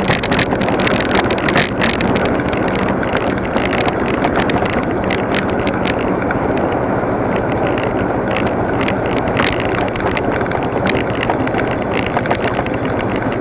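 Motorcycle riding at a steady speed: a low engine hum under a steady rush of wind and road noise, with frequent small clicks and knocks.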